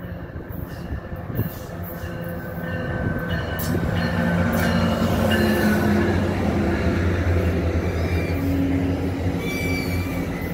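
MARC commuter train, a diesel locomotive with coaches, rolling into the station. It grows louder over the first few seconds, then holds a steady low engine drone and rail rumble, with short high squeals from the wheels or brakes.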